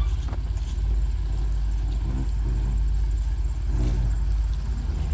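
Ford Bronco driving along a dirt forest track: a steady low engine and road rumble.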